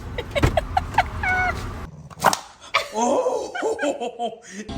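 A dog yipping and whining in short calls that bend up and down in pitch, with a busier run of overlapping whines and yelps in the second half.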